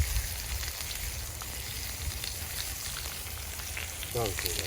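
Burger patties frying in hot oil over campfire coals: a steady sizzle with fine crackling.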